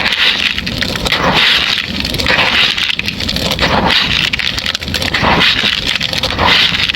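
Dry white stony chunks crushed and crumbled by hand, a dense crunching crackle that surges roughly once a second as each piece breaks apart.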